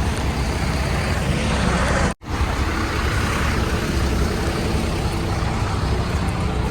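Steady rumble of road vehicles and traffic, cutting out for an instant about two seconds in.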